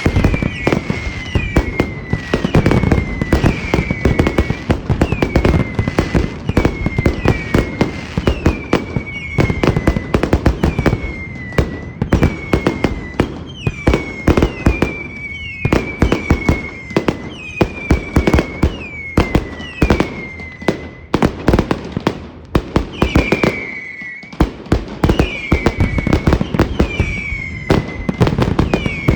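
Fireworks display going off continuously: rapid booms and crackling bursts, with repeated short whistles that fall in pitch about once a second.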